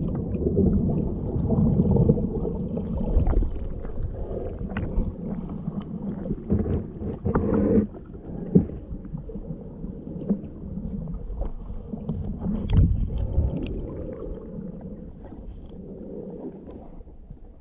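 Muffled underwater sound of a creek while snorkeling: a low rumble of moving water and bubbles, with scattered sharp clicks and knocks, slowly fading.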